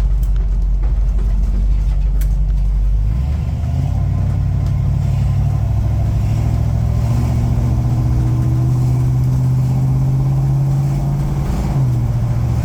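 Engine of a 1953 GMC panel truck pulling away, with a low steady hum that steps up in pitch about three seconds in and climbs gradually as the truck gathers speed. Its pitch drops back near the end.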